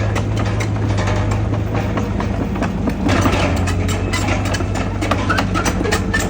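Heavy diesel engine of earthmoving machinery running steadily with a deep hum, overlaid by frequent short metallic clicks and clanks.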